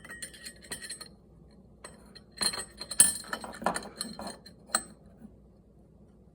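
Small hard clicks and clinks of a faucet handle, its tiny set screw and a Torx screwdriver being handled as the screw is threaded into the handle: a few at the start and a denser run between about two and a half and five seconds in.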